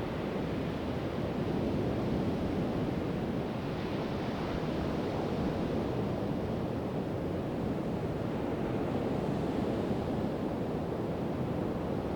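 Pacific Ocean surf breaking and washing on a sandy beach: a steady, continuous rush of waves that swells a little and eases off again.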